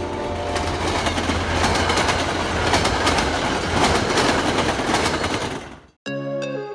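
MBTA commuter coaches passing close at speed, their wheels clattering over the rail joints over a steady rumble. The last of the locomotive's horn note dies away in the first second. The train sound fades out near the end and music starts.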